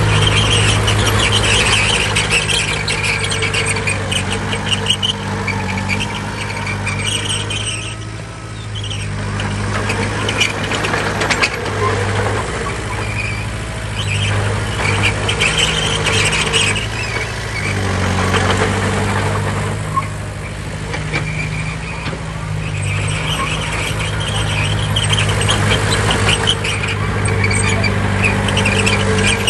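Heavy bulldozer diesel engine running under varying load, easing briefly twice. Over it comes intermittent high-pitched squealing, typical of a crawler's steel tracks.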